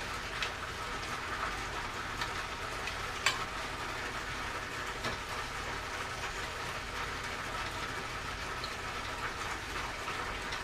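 Steady background hiss with a few faint, short clicks and taps, the clearest about three seconds in, as the cane's handle and its threaded fitting are handled and taken apart.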